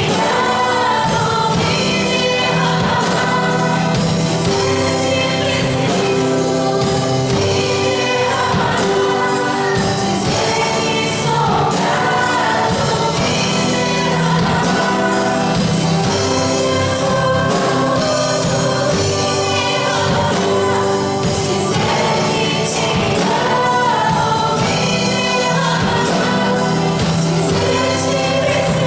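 Portuguese-language gospel worship song sung by a church praise group with instrumental accompaniment.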